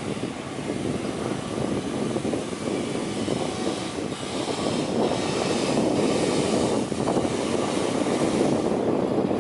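Jet airliner engines running, a dense rushing noise that grows steadily louder as the aircraft approaches.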